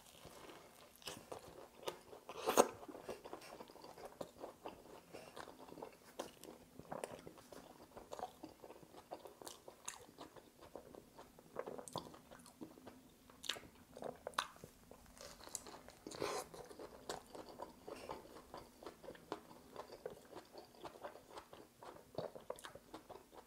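Close-up biting and chewing of a buffalo chicken sandwich on toasted bread with coleslaw: one loud crunchy bite about two and a half seconds in, then steady chewing with many small mouth clicks and smacks.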